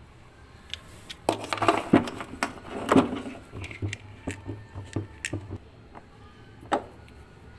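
A run of irregular sharp knocks and clicks for a few seconds, loudest in the first half, then a single knock near the end.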